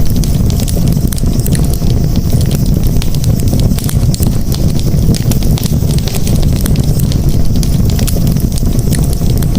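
Wood campfire burning, many sharp crackles and pops over a steady low rumble of the flames.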